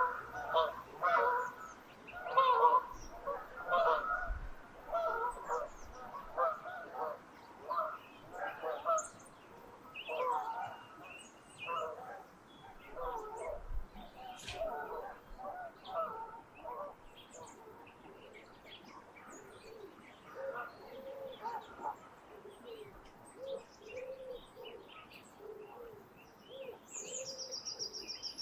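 A flock of geese honking as it flies over, loudest at the start and fading away over the first half. Small songbirds of the dawn chorus chirp and sing throughout, with a quick high trill near the end.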